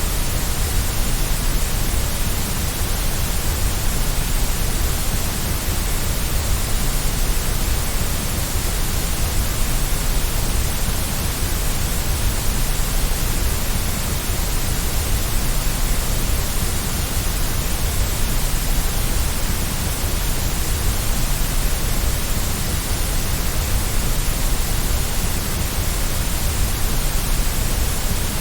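Steady white noise: an even, unchanging hiss with a deep low rumble beneath it, played as a sleep aid to soothe a baby.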